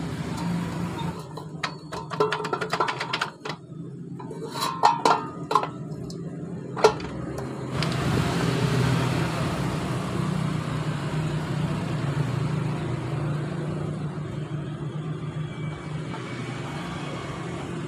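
Sharp metallic knocks and clinks, a dozen or so in the first seven seconds, as the halves of a Honda Supra X motorcycle crankcase are worked apart. From about eight seconds in a steady vehicle rumble takes over.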